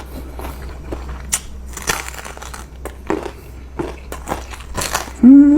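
Close-miked eating: irregular crunching bites and mouth clicks while chewing curry noodles. Near the end comes a short, loud voiced sound with a rising then falling pitch.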